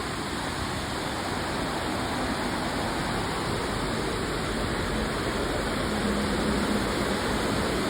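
Waterfalls and streams rushing with a steady, even roar of water.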